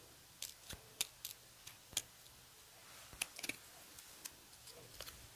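Small scissors snipping paper in short, sharp clicks at irregular intervals, as in fussy-cutting around a printed image.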